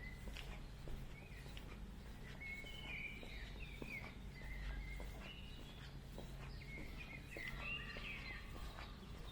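Songbirds singing and chirping in the trees, busiest a few seconds in and again near the end, over a walker's regular footsteps on a path and a low steady rumble.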